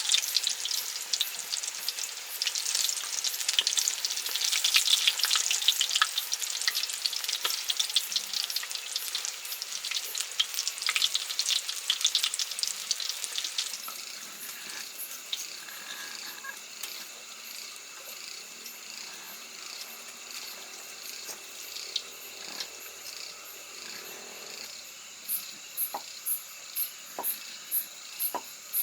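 Food sizzling as it fries in a pan, a dense crackling hiss that drops to a quieter sizzle about halfway through. Near the end a high, regular chirping starts, a few chirps a second, like an insect.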